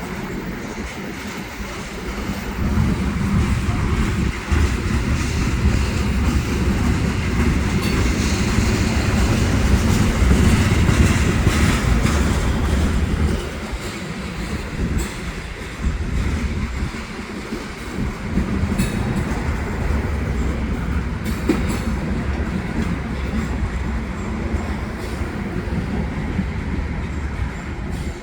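Freight cars of a slow-moving train rolling past: a steady rumble of steel wheels on the rails, louder for the first half, with a few sharp clicks in the second half.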